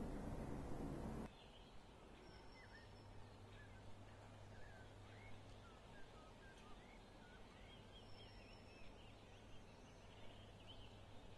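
Faint outdoor ambience: a louder steady hiss cuts off about a second in, leaving a low steady hum with small birds chirping faintly and repeatedly in the distance.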